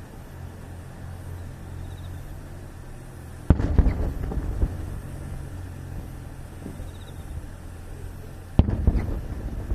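Two aerial firework shells bursting, about five seconds apart, each a sudden loud bang followed by about a second of crackling pops, over a steady low rumble.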